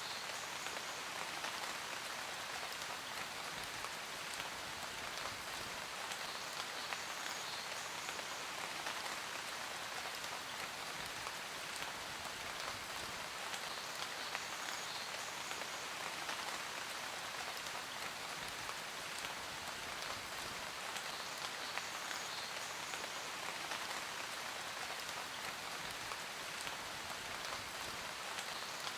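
Steady rain falling on a surface, a dense even patter of drops with no let-up.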